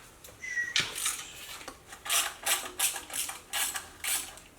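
Ratchet wrench clicking in quick back-and-forth strokes, about two or three a second, working loose a last intake manifold bolt on a Ford 302 V8. A brief high squeak sounds near the start.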